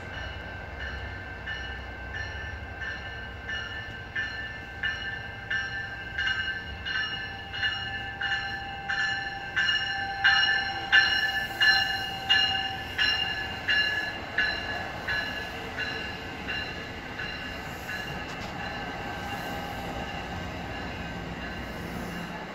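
An Exo commuter train's bilevel passenger coaches rolling past. Under the running noise comes a regular metallic ringing beat about one and a half times a second, with a high steady squeal; it swells to its loudest about halfway through, then fades.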